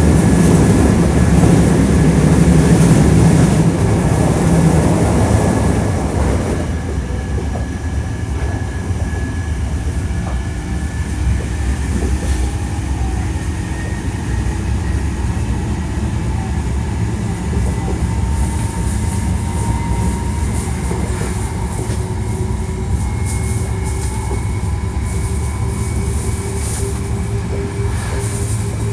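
Hankyu 1300 series train running on the rails, with the whine of its Toyo Denki IGBT inverter and traction motors. A loud rumble fills the first six seconds, then eases off. After that, several whining tones climb slowly in pitch as the train gathers speed, over steady wheel-on-rail noise.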